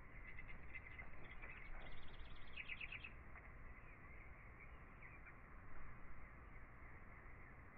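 Faint birdsong: small birds chirping, with a quick run of repeated chirps about two seconds in.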